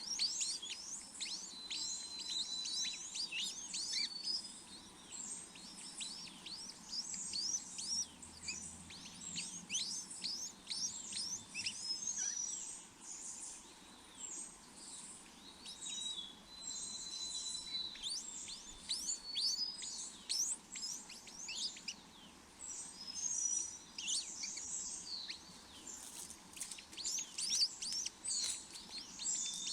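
Birds chirping: a dense, unbroken run of short, high, downward-sweeping chirps, mixed with a few brief whistled notes.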